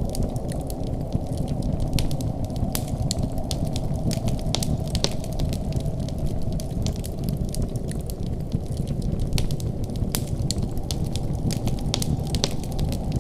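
Wood fire in a fireplace crackling: frequent, irregular sharp snaps and pops over a steady low rumble of the burning fire.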